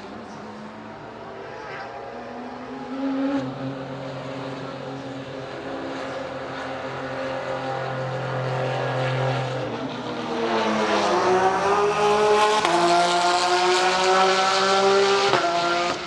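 Porsche 911 GT3 RSR race car's flat-six engine at speed on track. Its pitch falls in the opening seconds, then the engine grows louder and climbs through the revs with an upshift about two-thirds of the way in, before dropping away sharply near the end.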